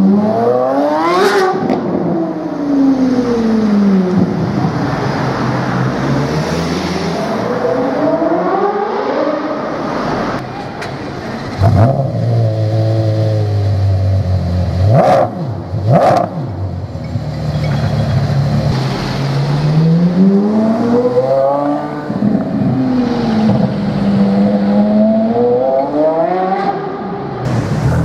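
Porsche Carrera GT's V10 engine, straight-piped, revved repeatedly: the pitch climbs sharply and falls away several times, with a steady lower stretch in the middle. A few sharp bangs come around the middle.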